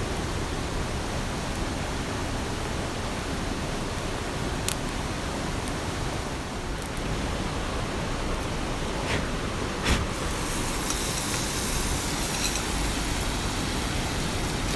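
Heavy rain falling steadily, a dense even hiss, with a few sharp drop hits about five seconds in and twice around the nine-to-ten-second mark.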